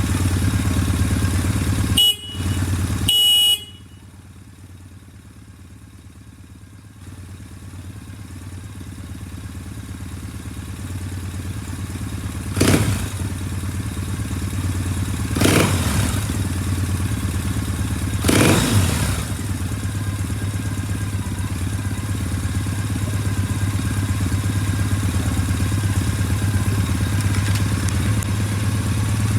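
Triumph Bonneville T100 parallel-twin engine idling, with two short horn beeps about two seconds in. The idle then drops quieter and slowly grows louder again, with three short throttle blips partway through.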